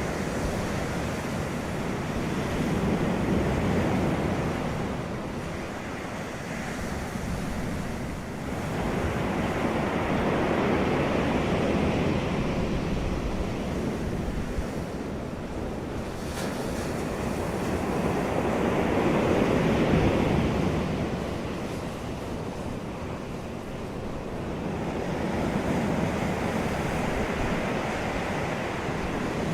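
Wind and surf outdoors: a steady rushing noise that swells and fades about every seven or eight seconds, like waves washing in, with wind buffeting the microphone.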